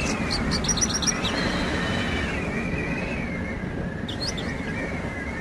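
Steady wind blowing over open ground, with a Javan bush lark (branjangan) singing its courtship song: a quick run of short high chirps about half a second to a second in, and a couple more about four seconds in.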